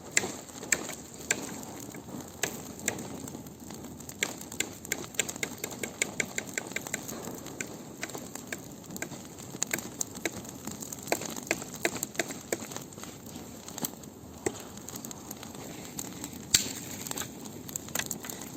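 Large bonfire of branches burning, with dense irregular crackling and pops over a low steady rush of flame; one louder snap near the end.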